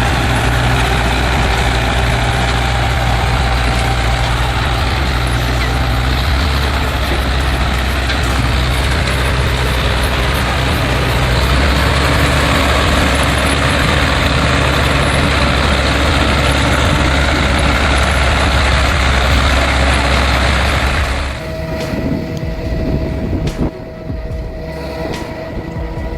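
Ursus C-360 tractor's four-cylinder diesel engine running steadily under load while hauling a long log. It breaks off abruptly about 21 seconds in, giving way to a quieter passage with a thin steady tone and a few clicks.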